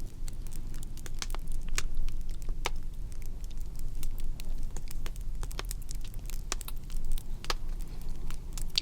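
Fire crackling: irregular sharp pops and snaps, a few loud ones among many small ones, over a steady low rumble.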